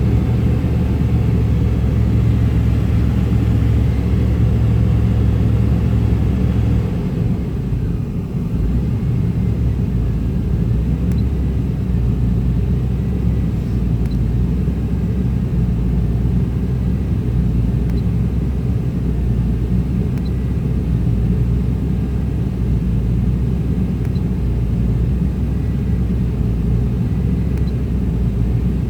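1995 Chevrolet Tahoe's 5.7 L V8 idling with a rough idle, which the owner puts down to a faulty EGR valve. The low drone changes and dips briefly about seven seconds in, then runs steady.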